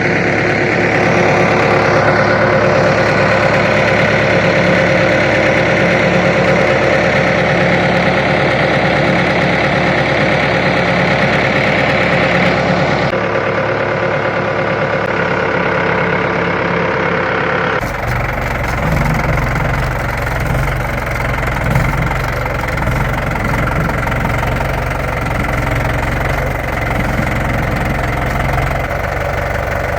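A motor engine idling steadily, with a knocking, rumbling character. The sound changes abruptly twice, about 13 and 18 seconds in, and from there on it runs deeper and lower.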